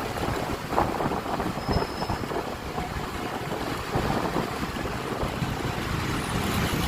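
Wind rushing over the microphone of a moving Honda Click 125i scooter, with the scooter's engine and road noise running steadily underneath.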